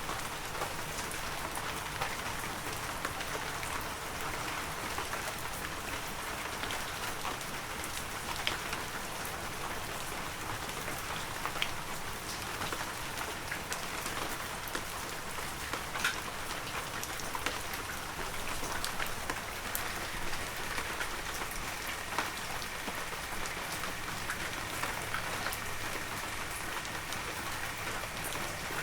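Heavy rain falling steadily, a dense hiss of rain with many individual drops ticking sharply on surfaces.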